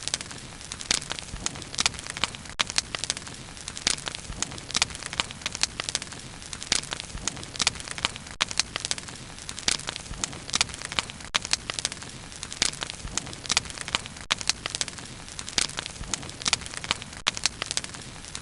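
Wood bonfire crackling steadily: frequent sharp pops and snaps over a soft, even hiss of flame.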